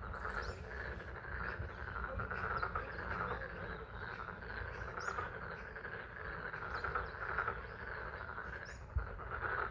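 A dense chorus of frogs calling at a pond, pulsing steadily, with spring rain and a low rumbling background beneath it and a few faint high chirps.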